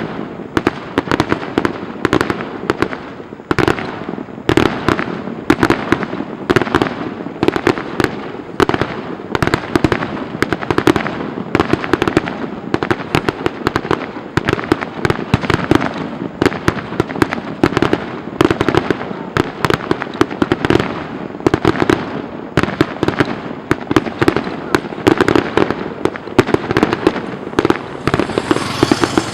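A fireworks display going off in a dense, continuous barrage: many sharp bangs a second, irregular and overlapping, with no pause.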